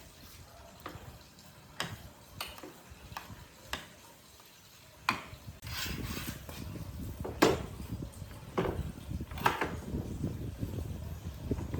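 Irregular sharp clinks and knocks, like hard tools or pieces of wood and metal being handled and set down, about nine in all. A low rumble joins in about halfway through.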